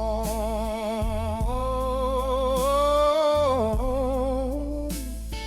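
Slow, dark A-minor blues song: a singer holds one long note with a wide vibrato over sustained bass and band backing. The note fades shortly before the end.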